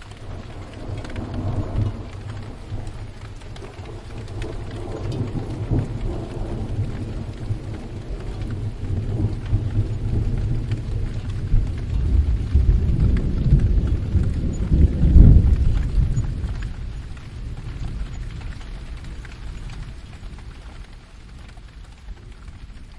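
A long roll of thunder over steady rain. The rumble swells, is loudest about two-thirds of the way through, and then dies away.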